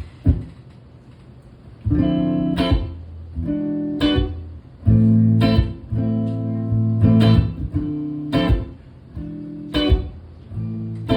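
Guitar intro: a couple of short strums, then from about two seconds in a steady run of strummed chords with a sharp attack on each one.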